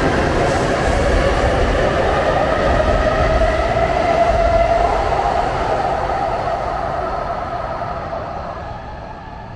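N700S Kamome shinkansen train pulling out of the station and accelerating past the platform: its motor whine rises in pitch, then the sound fades as the train draws away down the line.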